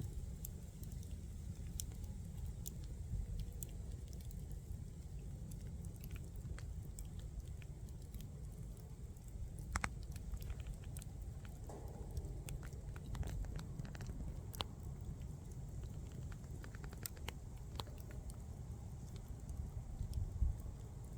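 Bonfire of burning wood crackling, with irregular sharp pops over a steady low rumble.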